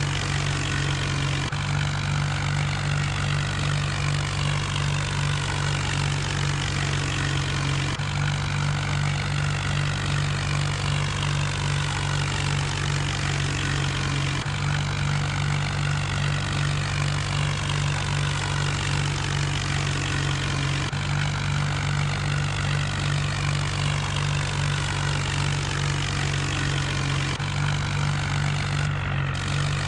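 John Deere tractor's diesel engine running steadily under load, a constant low drone with a rasping top.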